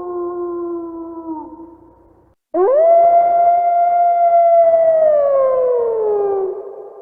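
Wolf howling: one long howl drops in pitch and fades out, then after a brief silence a second howl swoops up sharply, holds its note, and slides slowly down before trailing off.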